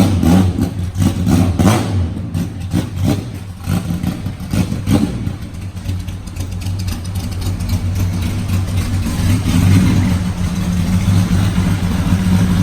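Hakosuka Nissan Skyline with a loud side-exit exhaust, its engine running with a deep steady note. It is choppy with short surges over the first few seconds, then steadies and grows louder toward the end.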